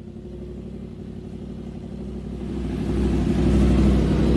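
Yamaha YZF-R1 (RN32) crossplane inline-four running through a Leo Vince LV10 aftermarket exhaust, burbling at a steady idle and then growing louder about two and a half seconds in.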